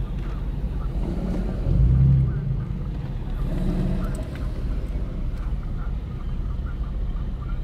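Low engine and exhaust rumble of a slow-moving car heard from inside its cabin, swelling louder briefly about two seconds in.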